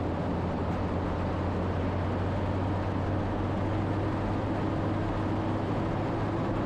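Four-wheel drive vehicle driving steadily on a gravel track: a continuous low engine drone with tyre and road noise, and a faint tone that rises slightly in the second half.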